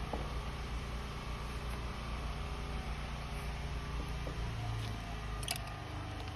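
Steady low mechanical hum, like a motor or engine running, with one sharp click about five and a half seconds in.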